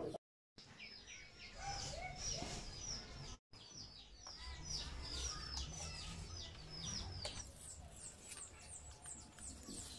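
Birds chirping faintly in a quick, irregular run of short falling chirps, over a low steady rumble.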